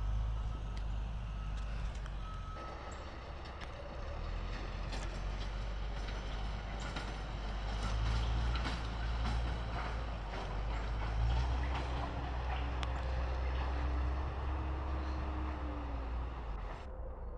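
Heavy diesel engine of a crane-equipped work tractor running with a steady low rumble. A backup alarm beeps a few times in the first couple of seconds, then stops, and scattered knocks come and go over the running engine.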